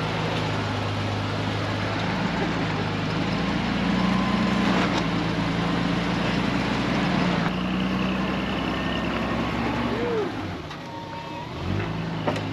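Off-road vehicle engine running steadily at low revs while crawling the trail. It eases off about ten seconds in and picks up again just before the end.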